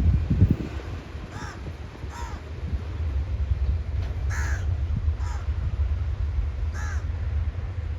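A crow cawing five times in short, spaced calls over a steady low rumble.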